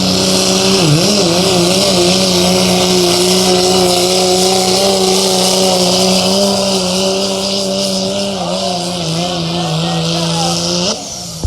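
A pull vehicle's engine running hard at high revs under load, holding a steady pitch with a brief wobble about a second in, then dropping off sharply near the end as the run ends.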